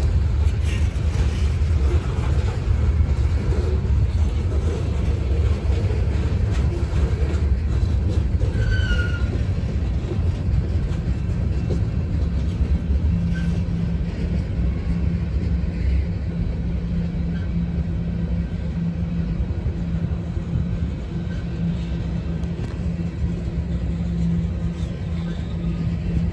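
Freight train cars rolling past: a steady rumble of steel wheels on the rails. A low steady hum joins about halfway through.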